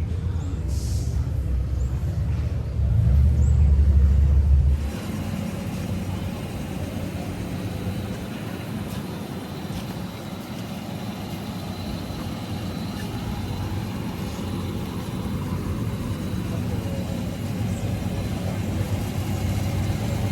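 Car engine running with a deep low rumble that grows louder about three seconds in and cuts off abruptly near five seconds, followed by a quieter, steady engine and street hum.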